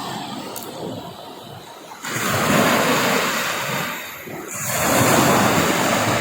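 Sea waves washing onto the shore, in two loud surges of rushing water, the first starting abruptly about two seconds in.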